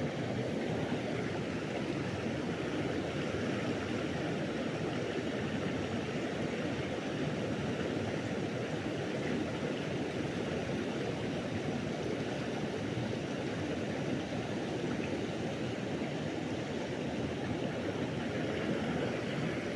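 River water flowing, a steady, even rush with no change through the whole stretch.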